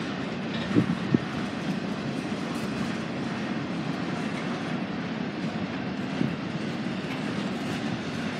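Freight train rolling past, its wheels rumbling steadily on the rails, with two sharp wheel clacks about a second in.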